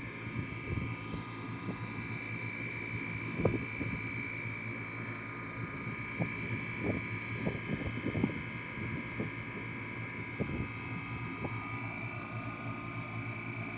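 Carlyle 06D818 semi-hermetic reciprocating compressor running steadily with a constant hum and a high whine, in good running condition. Scattered sharp clicks or knocks sound over it, the loudest about three and a half seconds in.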